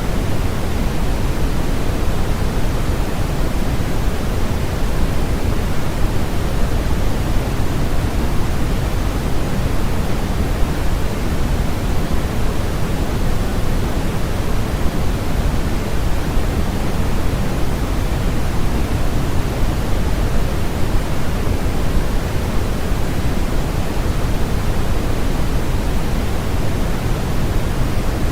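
Steady synthetic noise from a sleep-aid noise track: an even, unbroken hiss, heavier in the low end and thinning toward the top, with no change.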